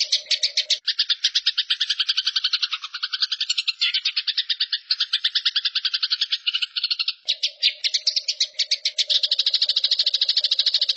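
Songbird masteran recording: a continuous rapid trill of about a dozen notes a second, dropping lower in pitch from about one to seven seconds in. A steady low hum sits under it at the start and returns about seven seconds in.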